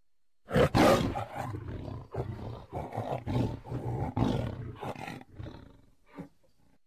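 Tiger roaring: a loud roar starts about half a second in, followed by a run of shorter rhythmic calls that fade away, with one last short call near the end.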